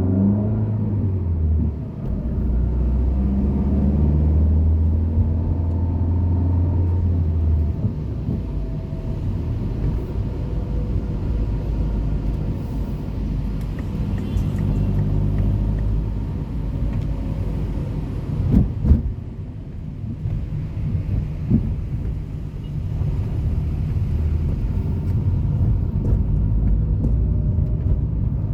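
Road traffic: a motor vehicle's engine running with a steady low hum that fades out after about seven seconds, over continuous traffic rumble, with a few sharp knocks about two-thirds of the way through.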